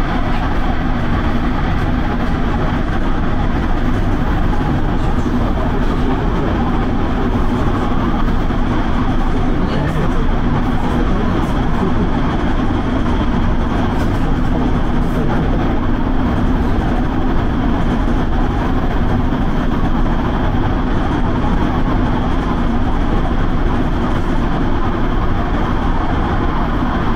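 Electric passenger train running along the line: a steady rumble of wheels on rails with a constant low hum.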